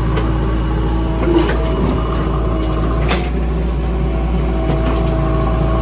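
JCB 3DX backhoe loader's diesel engine running steadily under load, with two brief knocks about a second and a half and three seconds in.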